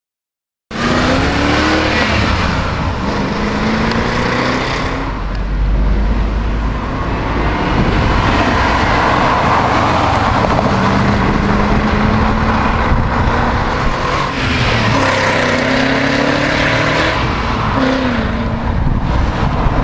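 BMW 840i engine through an aftermarket stainless-steel exhaust, starting about a second in. Its note climbs and drops back several times, with a deep low rumble a few seconds in.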